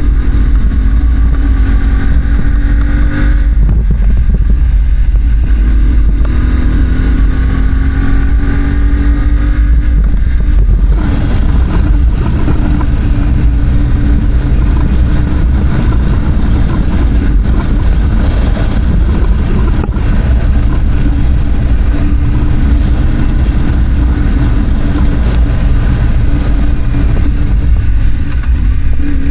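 Parallel-twin adventure motorcycle engine under hard throttle, revs climbing and dropping back several times as it shifts through the first ten seconds, then running on rougher and steadier. A heavy low rumble lies under it throughout.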